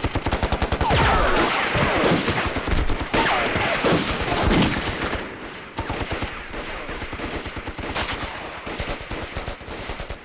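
Heavy battle gunfire: rapid machine-gun fire mixed with volleys of rifle shots. It is loudest over the first half and thins somewhat later on.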